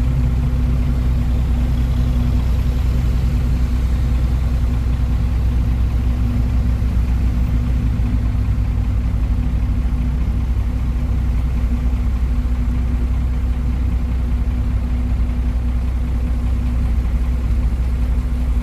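Old truck's engine idling steadily, a constant low drone with no revving.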